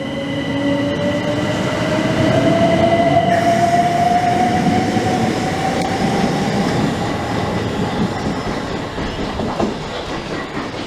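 Two coupled Class 375 Electrostar electric multiple units pulling away, their traction motors giving a whine that rises slowly and steadily in pitch as they accelerate, over the rumble of the wheels on the track.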